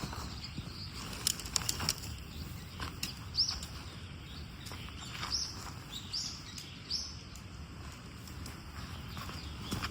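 A small bird chirping, four or five short high calls spread over a few seconds, over a low steady outdoor hiss. A quick run of light clicks or taps comes about a second in.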